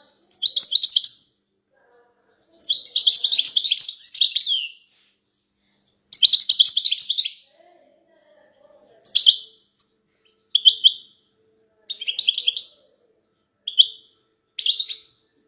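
Female European goldfinches giving rapid chattering twitter calls, the kind played to stir a male goldfinch into song. About nine bursts come in turn, the longest about two seconds, with short pauses between them.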